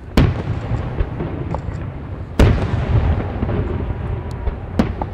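Aerial firework shells bursting: three loud booms about two and a half seconds apart, each followed by a low rumbling echo.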